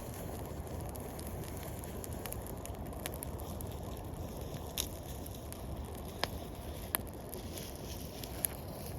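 Wood campfire crackling, with a few sharp pops in the second half, over a steady low rushing noise.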